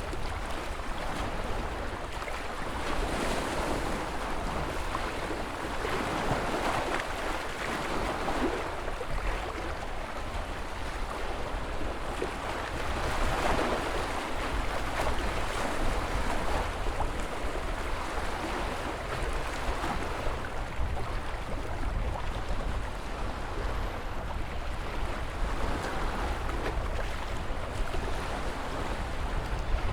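Ocean surf: waves breaking and washing in, each swelling and fading every several seconds, over a steady low rumble.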